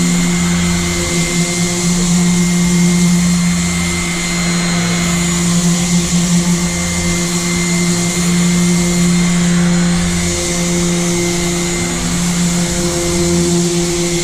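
Electric power sander running steadily with a constant motor hum, sanding paint off an aluminium boat hull.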